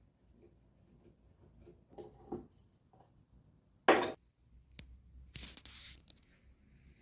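Workshop handling sounds: a few light knocks, one sharp clack a little before the middle, and a short scraping rush about a second and a half later.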